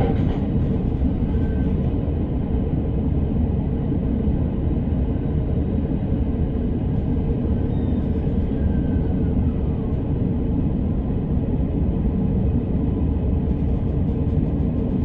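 Electric commuter train running along the track, a steady low rumble heard from inside the carriage.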